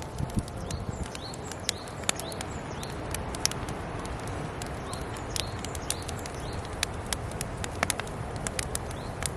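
Wood campfire crackling, with frequent irregular sharp pops and snaps over a low steady rumble of burning. Small birds chirp briefly now and then.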